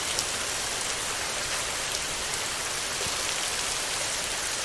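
Heavy rain drumming steadily on a tin roof: a dense, even hiss with scattered sharper drop ticks.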